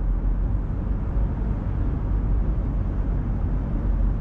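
Steady low road and engine noise of a car cruising along, heard from inside the cabin.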